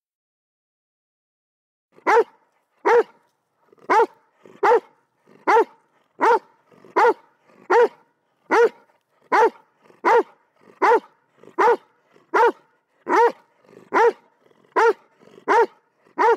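A dog barking over and over at a steady pace, about one bark every 0.8 seconds, starting about two seconds in.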